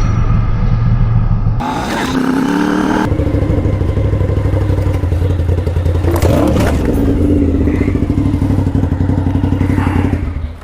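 Motorcycle engine running at a steady pitch, with a brief knock or clatter about six and a half seconds in.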